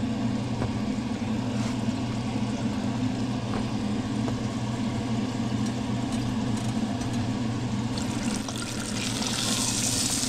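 Cooking fat sizzling on the stove: fish fillets frying in oil and sweet Hawaiian rolls toasting in hot butter, over a steady low hum. The sizzling hiss grows louder near the end.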